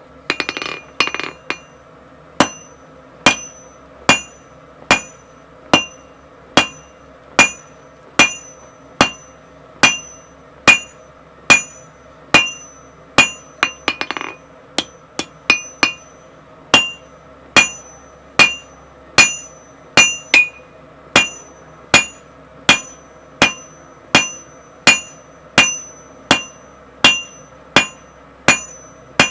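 Blacksmith's hammer striking steel on an anvil in a steady rhythm, about one blow every 0.8 seconds, each blow ringing. A brief clatter of metal comes about a second in, and a short scraping noise comes about halfway.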